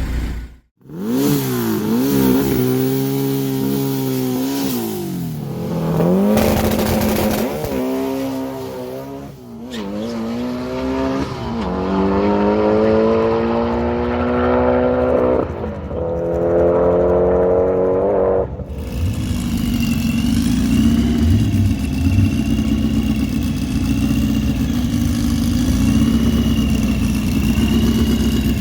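Drag car engine accelerating hard: the pitch climbs and drops back at each gear change, several times over. It cuts abruptly about two-thirds through to a steadier engine note with a faint wavering high whistle.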